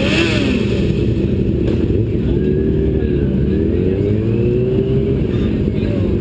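Vehicle engine at speed on a racetrack, heard from onboard with wind and road noise; its pitch dips about three seconds in, then climbs steadily as it accelerates again.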